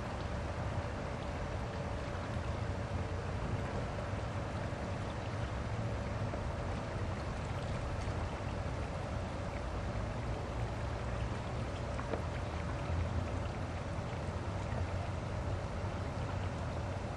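Steady rush of flowing river water with a low rumble, and a faint steady hum running through it.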